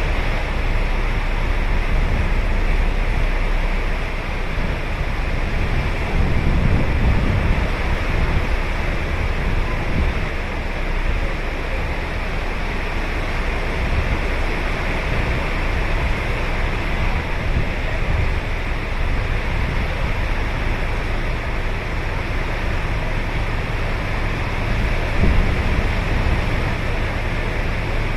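Ocean surf breaking and washing ashore in a steady rush, swelling louder about six to eight seconds in and again near the end.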